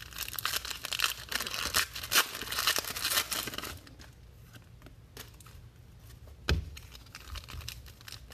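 Plastic wrapping on trading-card packaging being torn and crinkled for about four seconds. After that comes quieter handling, with a single thump about six and a half seconds in.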